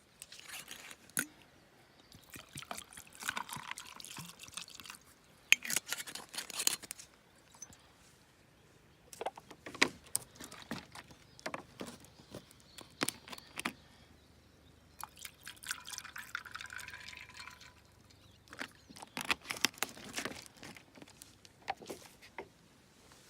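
Liquid pouring and dribbling in several short spells, mixed with sharp clicks and knocks of handling.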